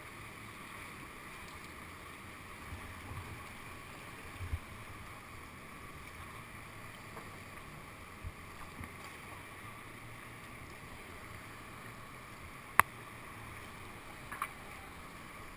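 Steady rush of whitewater in a man-made whitewater channel, with a few soft low thumps and one sharp click late on, typical of paddling a kayak.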